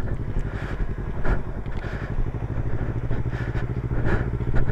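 Motorcycle engine running steadily at low revs, its pitch barely changing.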